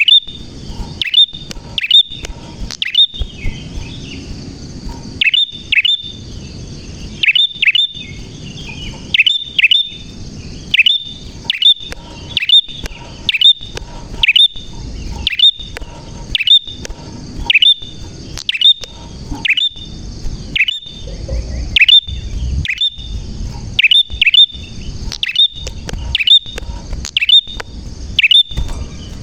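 Prinia (prenjak) singing, a fast unbroken series of loud, sharp chirps, each a quick downward sweep, about two a second.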